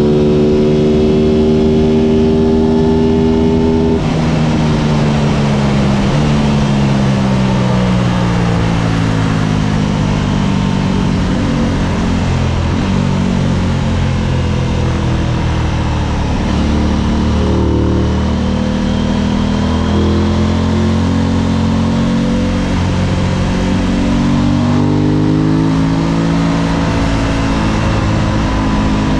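Aprilia RS660's 659 cc parallel-twin engine at speed on a race track. Its pitch rises and falls as the bike accelerates, shifts and slows for corners, with a sharp drop in pitch about four seconds in.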